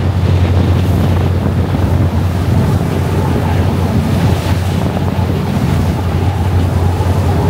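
Passenger ferry under way: a steady low engine drone with rushing water and wind buffeting the microphone.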